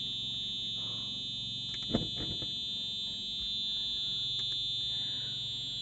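Continuous high-pitched electronic buzzer tone held steady over a low hum, with a single sharp knock about two seconds in.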